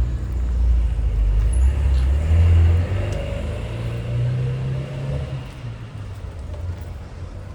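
A car passing close by on the street, its engine note low and rising in pitch partway through as it pulls away, then gradually fading.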